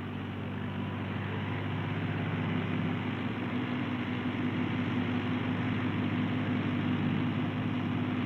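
Ford compact tractor's three-cylinder diesel engine running steadily, growing a little louder over the first few seconds.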